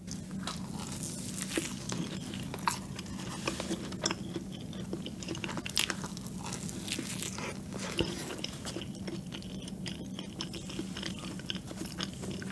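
Close-up biting and chewing of a chocolate-topped cream donut, with small crackles and soft wet mouth sounds over a faint steady hum.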